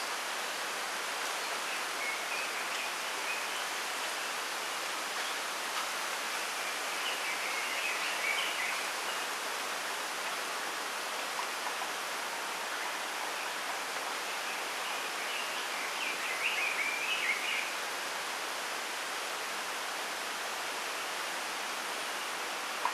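Wind rustling through a bamboo grove, a steady hiss, with small songbirds twittering in short bursts, loudest about a third of the way through and again past the middle.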